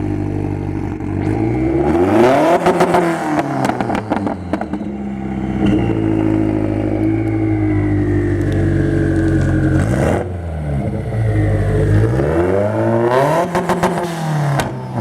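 Toyota 86's flat-four boxer engine with a hater pipe (over-pipe delete) fitted, idling and revved up and back down twice, with a crackly rasp at the top of each rev.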